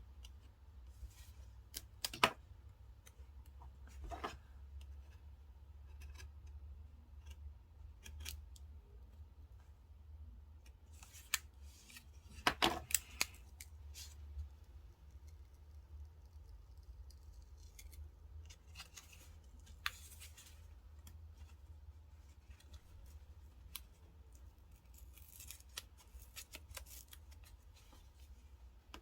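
Scissors snipping paper, among light rustling and tapping from handling paper and stickers, with a quick run of snips about twelve seconds in.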